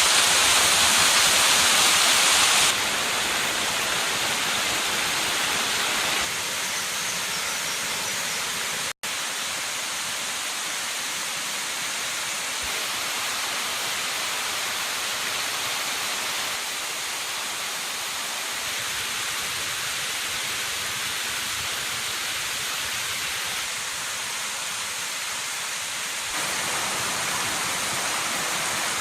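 Rushing water of waterfalls on a river: a steady hiss that jumps louder or softer abruptly a few times, with a momentary dropout about nine seconds in.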